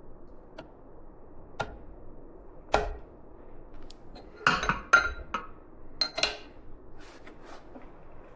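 Metal parts and tools clinking and knocking on a workbench: a handful of separate sharp clinks, some ringing briefly, the loudest cluster about halfway through.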